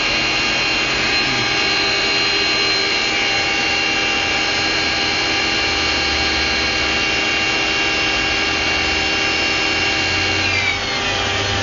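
A steady whirring whine from under the hood of a Volkswagen Passat B5.5 with its engine running. About ten and a half seconds in, the whine winds down in pitch and stops, leaving the engine idling.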